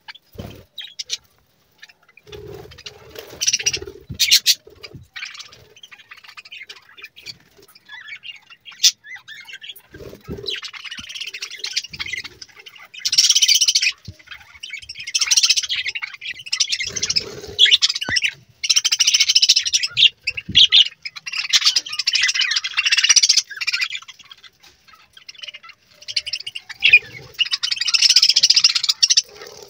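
Budgerigars chirping and warbling in irregular bouts, sparse at first and near-continuous from about a third of the way in. A few short low thumps come in between.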